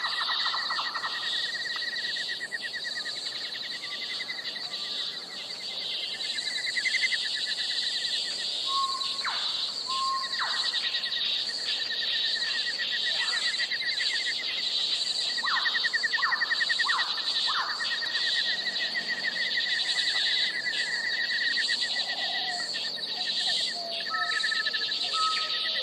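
Outdoor nature ambience: a steady, high, fast-pulsing insect chorus, with a lower trill that comes and goes. Scattered short bird calls sound over it, including a run of quick downward notes around the middle and brief whistled notes near the end.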